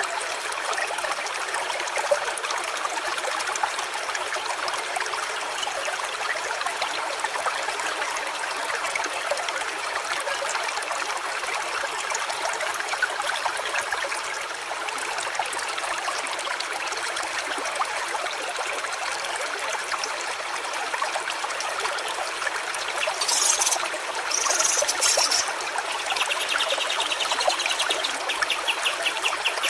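Stream water running and trickling steadily. Near the end come a few short high calls, then a rapid pulsing trill.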